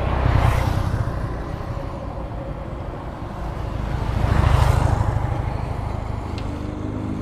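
Kawasaki ER-6f parallel-twin engine running through a Leo Vince SBK slip-on exhaust. The exhaust note swells twice, about half a second in and again around four and a half seconds in, and settles back in between.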